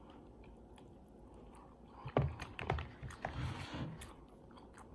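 Close-miked chewing: crisp clicks and wet mouth sounds of food being bitten and chewed, starting about two seconds in after a quiet stretch.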